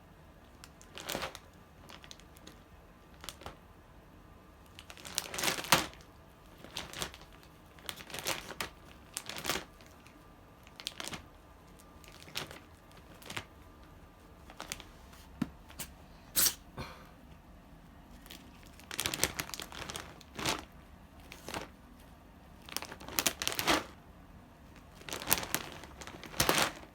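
Repeated irregular bursts of crinkling and rustling, a second or two apart. The loudest burst comes about five and a half seconds in.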